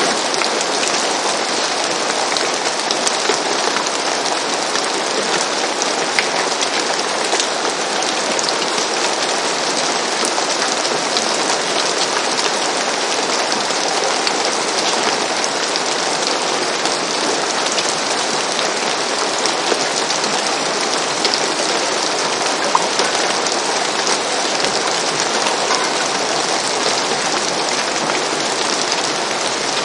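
Steady rain falling on a roof, an even hiss of many small drop patters.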